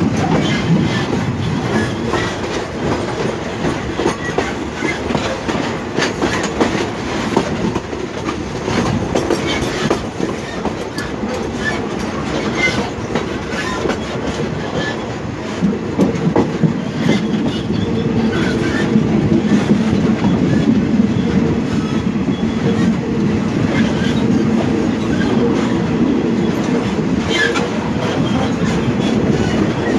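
State Railway of Thailand passenger coach running along the track, its wheels rumbling and clicking over the rails with a steady rush of passing air, heard from an open window. It grows a little louder about halfway through.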